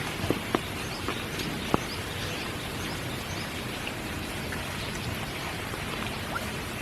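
Steady spring rain falling, with a few sharp, close drips landing in the first two seconds.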